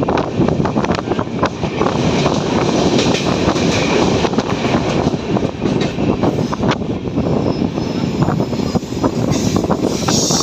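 Train running on the rails: a steady rumble with dense, irregular clattering and knocking.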